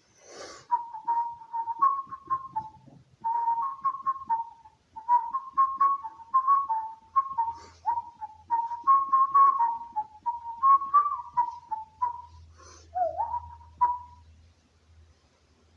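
A person whistling a lively tune in short notes, some of them sliding down in pitch; the whistling stops about fourteen seconds in.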